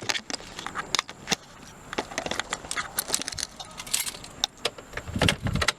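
A set of keys jangling and clinking as they are handled: a scattered run of small metallic clicks and jingles.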